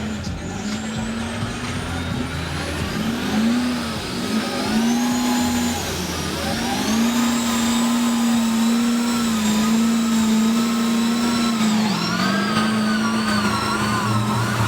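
Mega truck's big engine revving hard: a few short rises and falls in revs at first, then held at high revs with a wavering pitch, dipping briefly and climbing again near the end.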